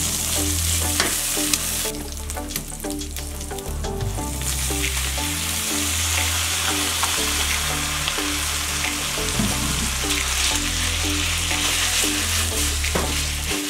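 Bacon and garlic sizzling in oil in a frying pan while tongs stir and toss the food, with light clicks of the tongs. The sizzle thins out about two seconds in, then comes back strongly.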